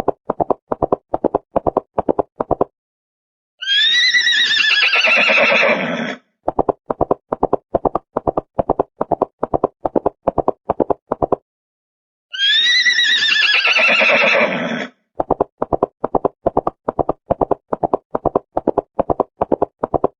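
Horse hoofbeats clip-clopping at about four a second, broken twice by a long horse neigh that starts high and falls in pitch. The same clop-and-neigh sequence repeats identically, like a looped sound effect.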